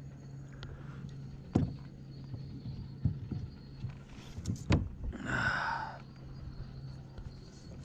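Two sharp knocks and a few softer taps and rustles of fishing gear being handled aboard a kayak, over a steady low hum.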